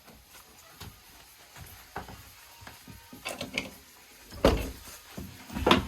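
Scattered knocks and clicks of objects being handled, with two louder knocks about four and a half seconds in and near the end.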